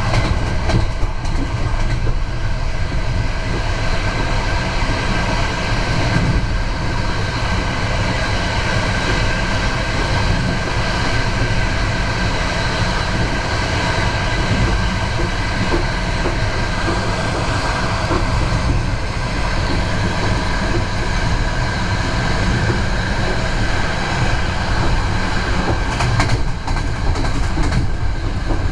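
Passenger train running at speed, heard from inside a carriage: a steady, loud noise of wheels on rails.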